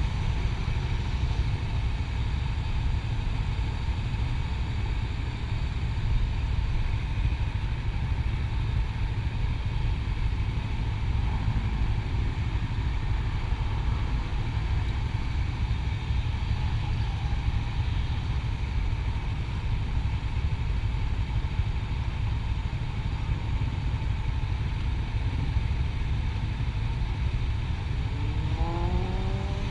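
Motorcycle riding along a highway, its engine running steadily under a heavy, low wind rumble on the microphone; near the end the engine note rises as it speeds up.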